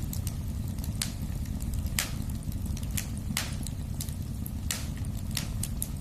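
Fire in a fireplace burning with a low steady rumble, broken by sharp crackles and pops about once a second.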